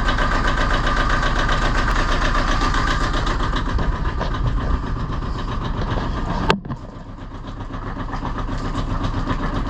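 1979 Yanmar marine diesel engine idling with a steady, rapid knock. A sharp click comes about six and a half seconds in, after which the sound drops and slowly builds back up.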